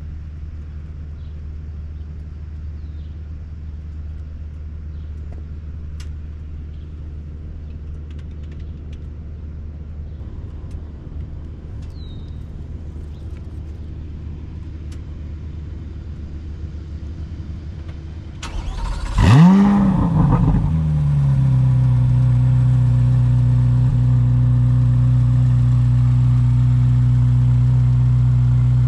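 Cold start of a 2024 Corvette C8 Z06's 5.5-litre naturally aspirated flat-plane-crank V8. After a steady low background hum, the engine fires about 18 seconds in, flares up sharply in pitch and falls back, then settles into a steady high cold idle.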